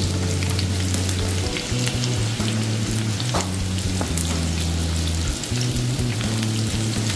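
Panko-breaded, cheese-stuffed pork cutlet rolls frying in hot oil in a pan: a steady sizzle with small crackles.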